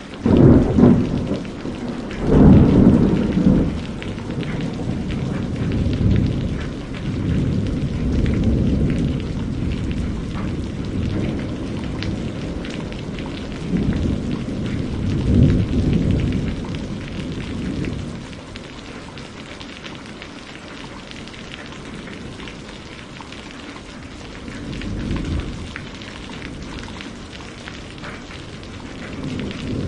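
Steady rain with rolling thunder, the rumbles swelling and fading several times, loudest about two seconds in and again in the middle, then easing to mostly rain.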